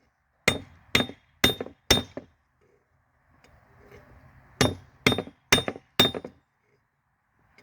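Hammer blows on a railroad spike against an anvil, each a sharp ringing clink. Two runs of four blows about half a second apart, with a pause of a couple of seconds between them.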